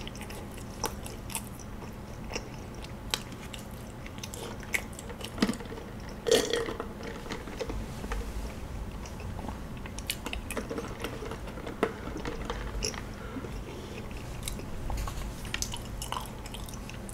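Close-miked chewing and biting of soft kaya toast, buttered toast with kaya jam: wet mouth sounds and small clicks, with a sip of iced drink through a straw partway through.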